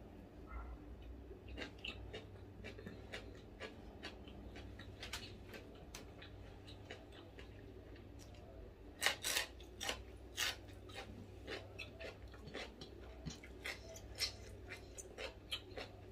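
Close-up chewing and crunching of food: irregular crisp crunches and clicks, with a burst of louder crunches about nine seconds in.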